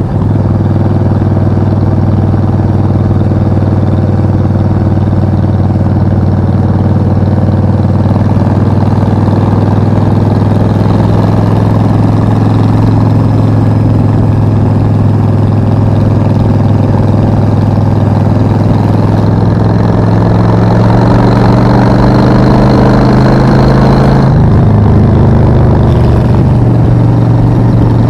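Suzuki VS 1400 Intruder's V-twin engine running steadily under way. Its note climbs slightly about twenty seconds in, then changes abruptly a few seconds later.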